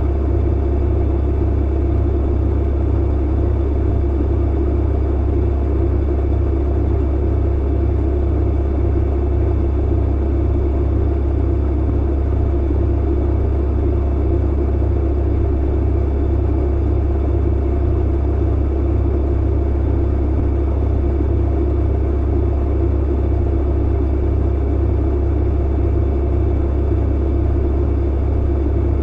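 Clothes dryer running: a steady low rumble with a faint hum, unchanging throughout.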